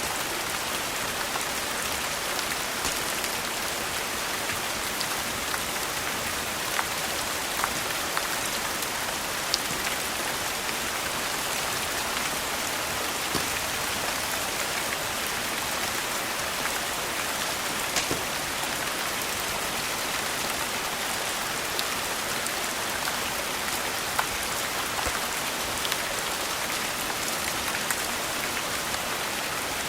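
Steady rain falling, with a few sharp crackles of a wood fire scattered through it.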